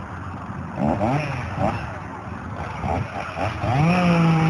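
Chainsaw engine revving up to full throttle near the end and holding at a steady high pitch, after a few shorter throttle blips.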